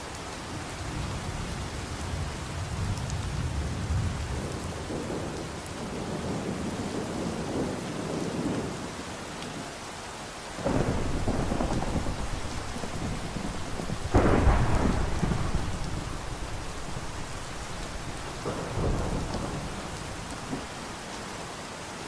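Thunderstorm: steady rain with repeated rolls of thunder. A long low rumble builds and fades over the first half, then a peal starts suddenly about halfway through, the loudest clap comes about two-thirds through and rolls away over several seconds, and a shorter rumble follows near the end.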